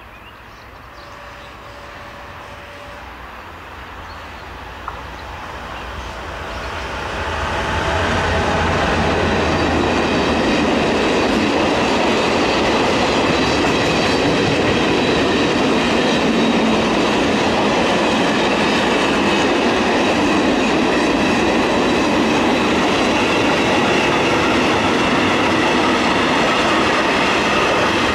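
A train approaching along the line, its noise building over the first eight seconds or so, then passing close by with a long, steady rolling noise of wheels on rails and faint high wheel ringing.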